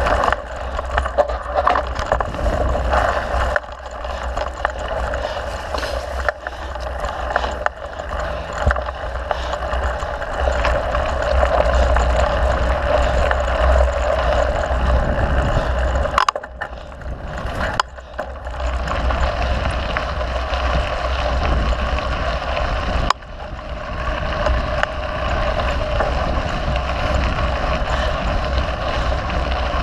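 Mountain bike ridden on a dirt trail: wind rumbling on the microphone over steady tyre noise and rattles from the bike. The noise drops briefly about halfway through and again about three-quarters of the way through.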